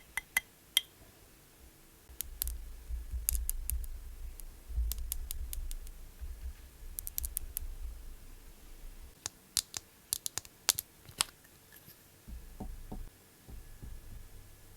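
Sharp, scattered clicks and taps of small makeup items and tools being handled, with a low rumble of handling noise through much of it.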